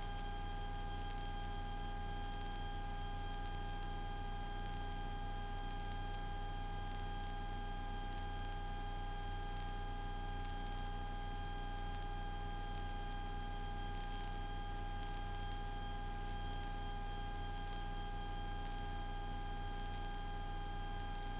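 Steady drone of a Cessna 172S Skyhawk's engine and propeller in a climb, heard through the cockpit intercom, with steady high-pitched tones over it.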